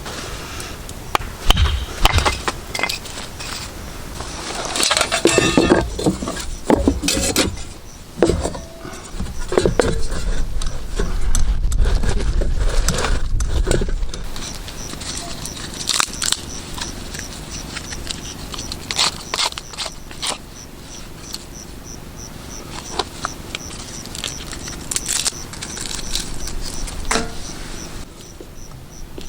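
Camping gear being handled: irregular rustling, clicks and scrapes. A faint high tick repeats evenly in the background through the second half.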